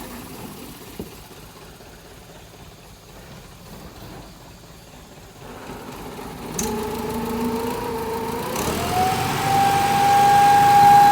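Truck engine, faint at first, growing louder from about halfway through. Its pitch steps up near the end and is then held high and steady, the loudest part.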